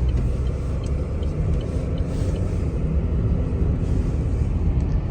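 Car driving on a snow-covered road: a steady low rumble of tyres and engine.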